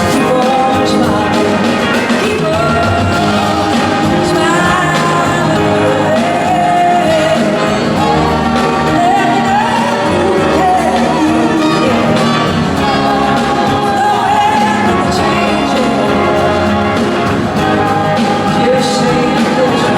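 Live rock band playing with singing, the music loud and continuous, with gliding, bending melody lines over the band.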